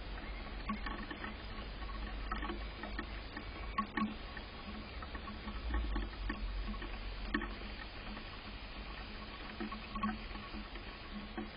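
Irregular light tapping and clicking, coming at uneven intervals, over a steady low rumble.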